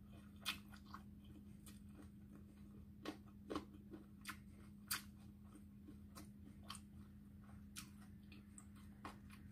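Faint eating sounds of a person chewing and taking food by hand: scattered short clicks and mouth smacks, a few louder ones about half a second in and between three and five seconds in, over a steady low hum.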